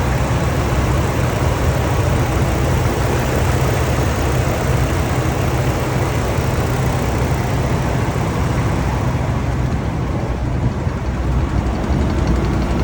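Ford F650 water truck's engine running steadily, with a strong low rumble; the higher hiss over it eases off about nine seconds in.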